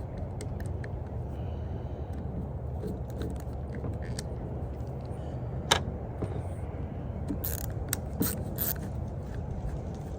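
Scattered light clicks and taps of tools and small metal engine parts being handled while a weed eater engine is taken apart, the sharpest click about six seconds in. A steady low rumble runs underneath.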